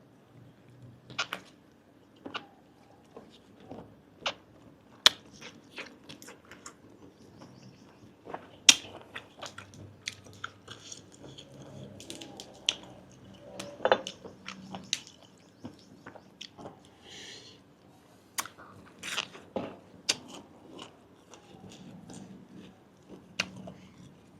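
A person chewing grilled giant octopus tentacle, with wet mouth clicks and smacks at irregular intervals.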